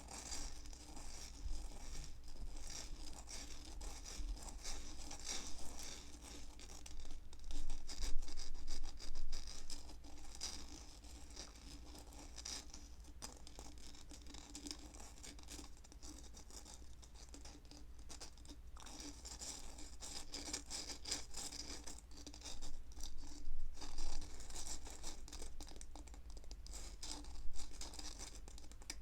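Close-miked scratching and brushing sounds in uneven strokes, typical of ASMR triggers, with louder passages about a quarter of the way in and again near the end.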